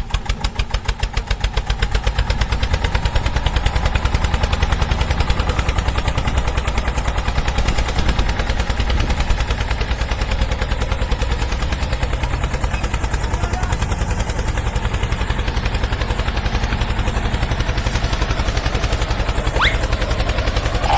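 Steady, fast engine-like chugging, with two short rising whistles near the end.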